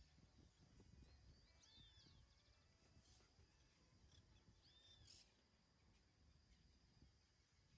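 Faint bird calls: short arched notes repeated every three seconds or so, over a faint low rumble and a thin steady high tone.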